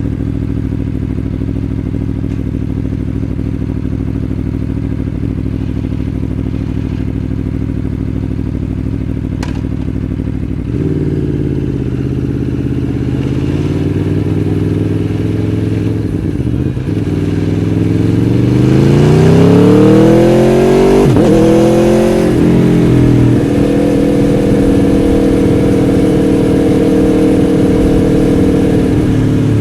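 Aprilia Tuono V4 1100 Factory's 1,077 cc V4 engine idling steadily, then pulling away. The revs climb through a couple of gear changes, about halfway and two-thirds of the way through, and settle to a steady cruise near the end.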